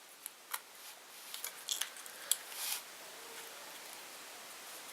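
A few light clicks and ticks of small metal parts being handled as the Magpul B.A.D. Lever is fitted around an AR-15's bolt catch, scattered over the first three seconds, then only faint room hiss.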